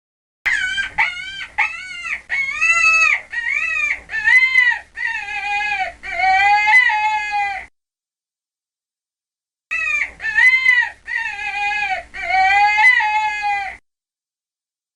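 Chicken calling: a run of short squawks that rise and fall in pitch, growing longer and ending in one drawn-out call. After a two-second gap comes a second, shorter run of the same kind.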